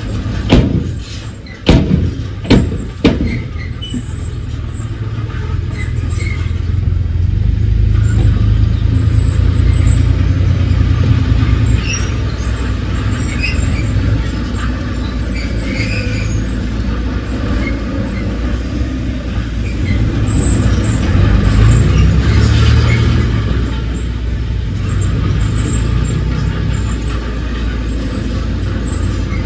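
Heavy diesel earthmoving machinery running with a deep, steady rumble that swells in loudness twice as it works under load. Several sharp knocks come in the first three seconds.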